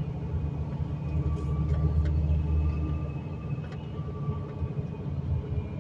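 Steady low rumble of engine and road noise from a vehicle driving along a highway, heard from inside the cab.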